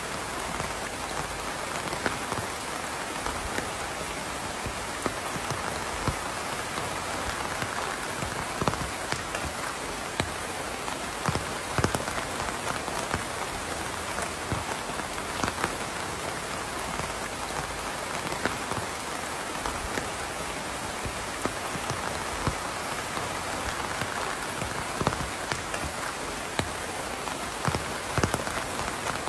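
Steady rain falling, with frequent sharp drops landing close by.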